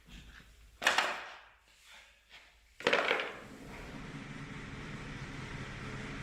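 Two hard knocks, about two seconds apart, then a steady low machine hum that sets in shortly after the second knock.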